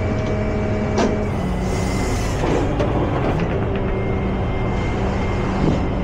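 Tow truck engine running steadily, with a thin high whine over it and a few short knocks.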